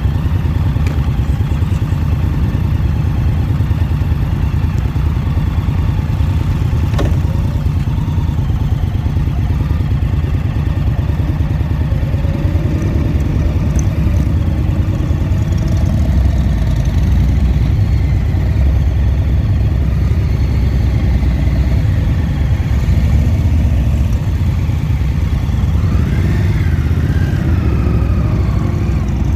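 Motorcycle engine running steadily while riding. Near the end the engine note rises and then falls briefly.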